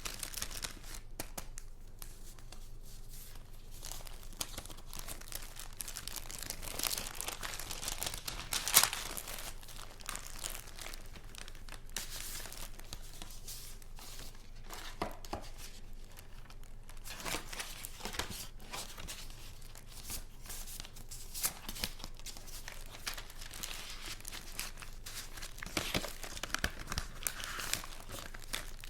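Paper and paper goods being handled by hand: irregular rustling and crinkling strokes, with a sharp, louder handling noise about nine seconds in and another cluster near the end.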